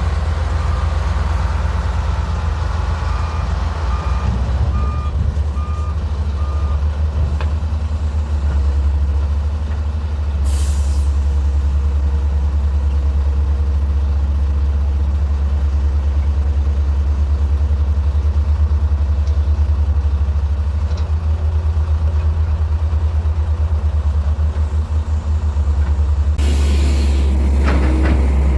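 Heavy diesel engines of an excavator and a dump truck running with a deep steady throb. A reversing alarm beeps about five times a few seconds in, a short hiss of air-brake release comes about ten seconds in, and a longer hiss of air comes near the end.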